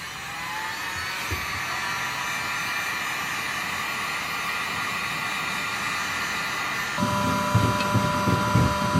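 Electric hot-air blower, likely a hair dryer or heat gun, spinning up and then running steadily, probably to soften old adhesive so that it can be peeled off the handle. About seven seconds in its tone changes and irregular low thumps of handling join it.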